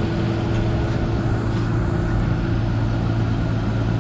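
Diesel engine running steadily at an even pitch, with no revving or change.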